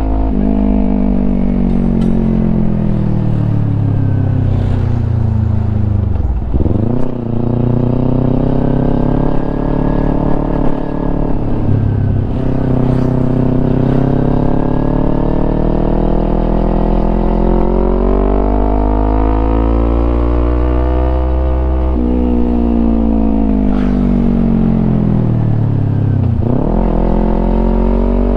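Kawasaki Ninja 250's parallel-twin engine through a Yoshimura aftermarket exhaust, pulling and easing off with the throttle. Its note falls over the first several seconds and dips sharply about six seconds in, then climbs and holds. It rises again midway, falls off, and dips sharply once more near the end.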